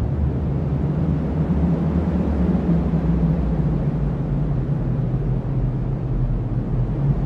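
Cyclone wind blowing steadily as a deep, low rumble with little hiss and no distinct gusts.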